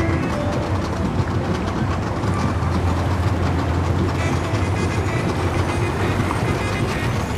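A steady low engine rumble, running without a break.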